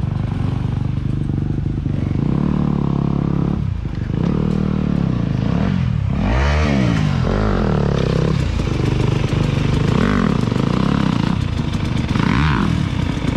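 Dirt bike engine running under throttle, its pitch rising and falling several times as the rider revs and backs off, with clattering from the bike over the trail.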